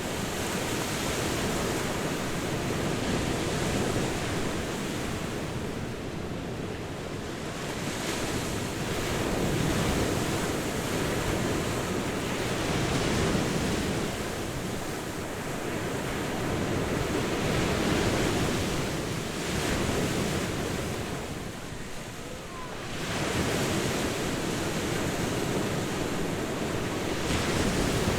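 Ocean surf washing onto a beach: a continuous rush of waves that swells and eases every few seconds, with a lull a little over twenty seconds in before the next wave surges back.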